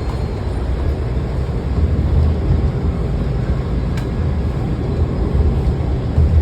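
Washington Metro railcar running along the track, a steady low rumble of wheels and motors heard from inside the car, with a single click about four seconds in.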